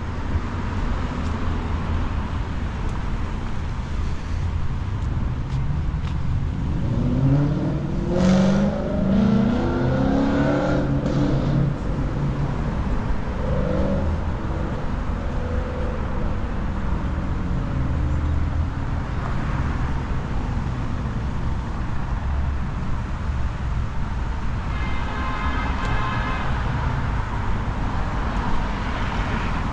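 Downtown street traffic: a steady rumble of cars, with a vehicle passing about eight seconds in, its engine pitch sweeping as it goes by. A brief high-pitched whine sounds near the end.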